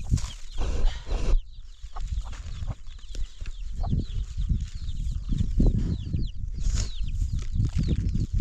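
Chickens clucking and chirping, over irregular low rumbling and knocking.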